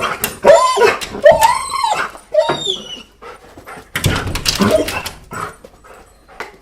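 A dog whining and whimpering: several short, high, pitched cries that rise and fall in the first few seconds, then a rougher, noisier outburst about four seconds in before it quiets.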